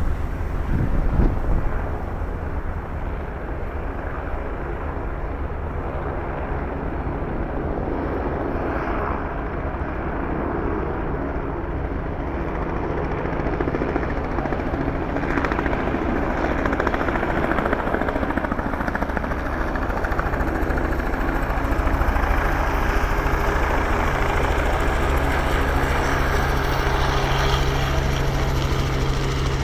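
Helicopter running close by with a steady rotor and turbine sound, which grows a little louder over the second half.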